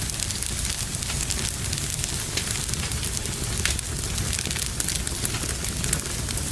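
Wood fire crackling in a fireplace: frequent small sharp pops over a steady low rumble of burning.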